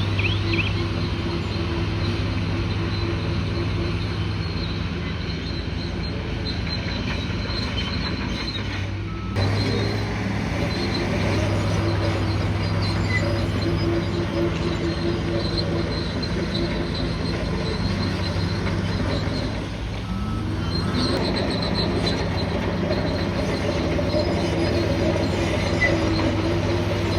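Bulldozer's diesel engine running steadily under load, with high-pitched squeals from its steel tracks. The engine drops off briefly about a third of the way in, dips again about two-thirds in, and then revs back up.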